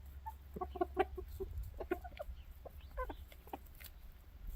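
Flock of chickens clucking: many short calls from several birds, scattered irregularly, over a steady low rumble.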